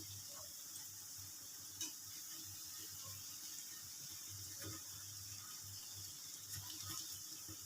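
Urad dal vadas deep-frying in hot oil in a small kadai: a faint, steady sizzle, with a light click about two seconds in.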